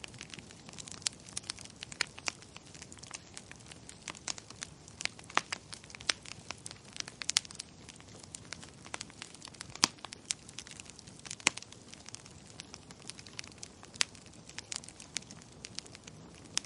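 Wood fire crackling: irregular sharp pops and snaps over a faint steady hiss, with a louder snap every few seconds.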